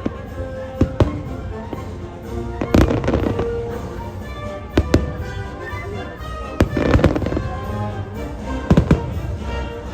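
Fireworks bursting in a display show, sharp bangs every second or two, some in quick pairs, over the show's music soundtrack.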